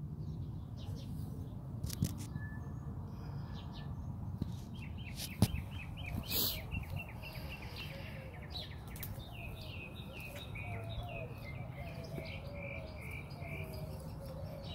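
Small birds chirping in quick repeated series of short notes, over a low steady background rumble, with a couple of sharp handling knocks, the loudest about five and a half seconds in.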